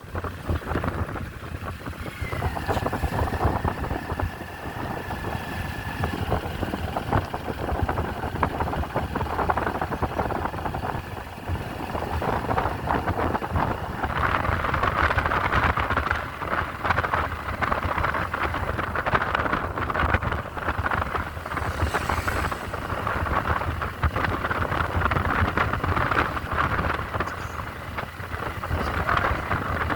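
Riding on a motorcycle: wind rushing over the microphone over the low rumble of the engine and traffic. A thin steady tone sounds for about four seconds, from about two seconds in.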